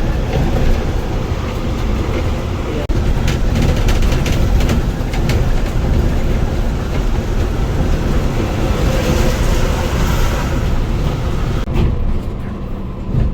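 Cabin noise of a moving Scania coach: a steady low engine and road rumble with scattered rattles. A hiss swells briefly about nine seconds in.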